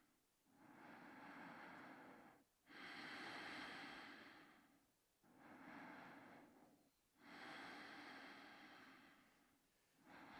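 A sleeping dachshund snoring faintly: slow, even breaths in and out, about two seconds each, four in a row.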